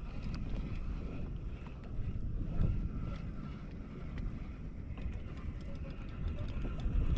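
Wind rumbling on the microphone out on open water, with faint scattered light clicks over it.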